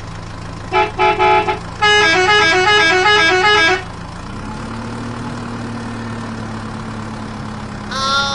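Electronic toy-truck sound chip: three short horn beeps, then a quick stepping electronic tune, over the steady low hum of a small toy motor. After the tune the motor's hum carries on alone with a steadier drone.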